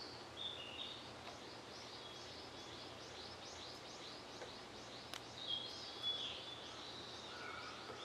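Wild songbirds singing: one bird repeats a quick series of short, high chirps, about three or four a second, while others give whistled notes, over a steady faint outdoor hiss.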